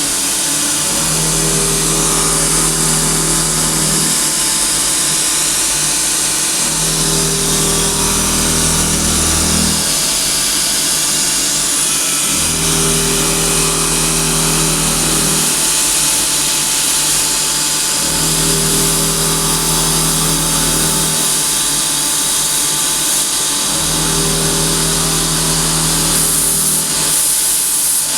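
CNC vertical machining centre milling an aluminium part: a loud, steady high hiss throughout, with a low hum that comes and goes in blocks of about three seconds, repeating roughly every six seconds as the cutting passes repeat.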